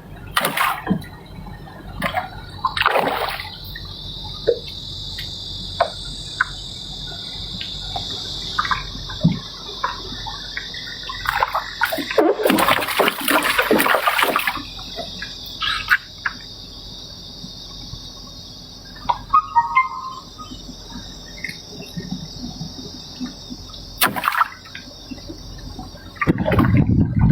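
Water splashing and sloshing around a small river boat, with a louder rush of water about halfway through. A steady, high insect buzz runs under most of it and stops a few seconds before the end.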